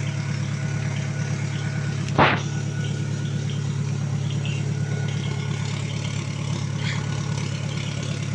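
Off-road 4x4's engine idling steadily, with one brief loud burst of noise about two seconds in.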